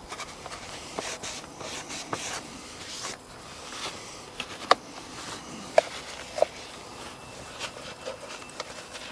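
Handling sounds of wiping down boat metal: faint rag rubbing with scattered light clicks and knocks, a few sharper taps near the middle.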